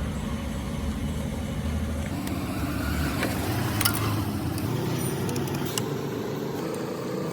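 Car engine running steadily. About two seconds in, its deep low hum gives way to a higher running note.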